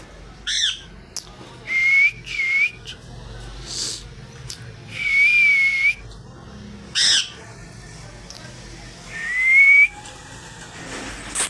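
A parrot whistling a series of clear held notes, slightly wavering, with one rising whistle near the end. Between them come a few short calls, about half a second in and again around seven seconds in, and a sudden sharp noise right at the end.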